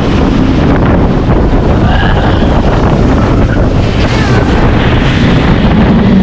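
Heavy wind buffeting the microphone while riding a roller coaster at speed, a steady rushing rumble with faint voices in it.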